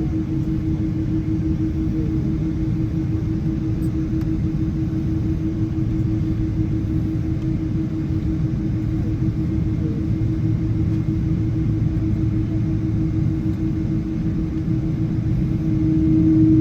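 Cabin noise inside a Boeing 777 on the ground before takeoff: a steady low rumble with a constant hum, swelling a little near the end.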